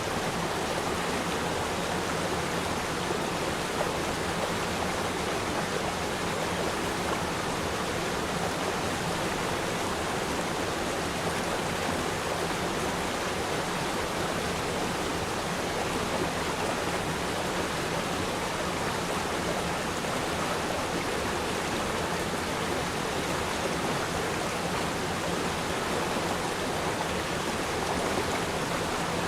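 A river stream flowing over rocks: steady, even rushing and babbling of water.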